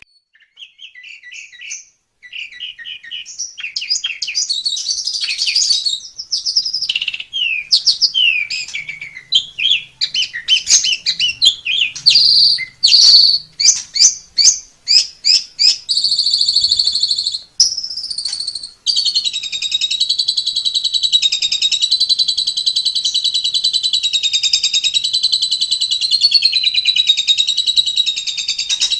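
White form of the Asian pied starling (jalak suren putih) singing: a varied run of loud whistles and chattering notes. About two-thirds of the way in it breaks into one long, unbroken, rapidly wavering warble.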